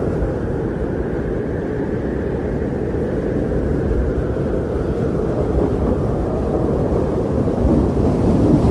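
Strong blizzard wind blowing steadily in a deep, low rush, swelling slightly near the end.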